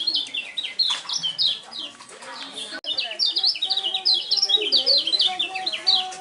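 Kecial kuning, a white-eye songbird, singing a fast run of high, quick, downward-slurred chirps, easing off briefly about halfway through before picking up again.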